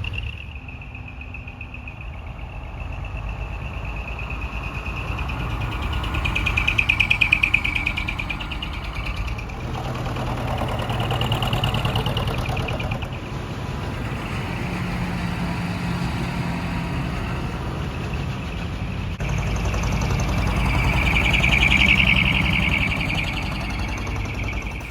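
Decorated tractor-trailer trucks driving past one after another, their diesel engines rising and falling in loudness, loudest about seven, eleven and twenty-two seconds in.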